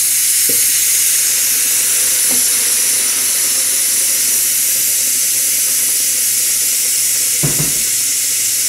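Pork ribs sizzling steadily in a hot clay pot as a blended yellow chile sauce is poured over them, with a brief clunk about seven and a half seconds in.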